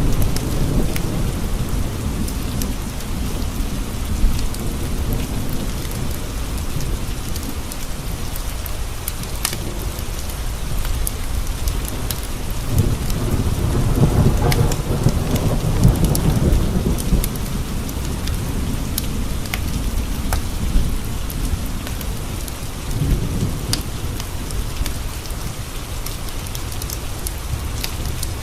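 Steady rain with rolls of thunder rumbling: one at the start, a long, loudest one in the middle and a shorter one near the end. A wood fire crackles with scattered sharp pops throughout.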